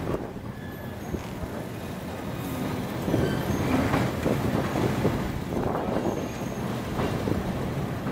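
Passenger train carriage running along a timber trestle, its wheels rumbling and clattering on the rails with short high squeals. It grows louder about three seconds in.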